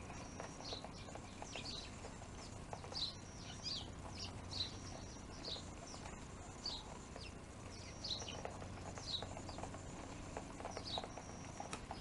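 Small birds chirping over and over, short high falling chirps about once a second, with faint light taps of birds pecking at a rain-gutter feeder.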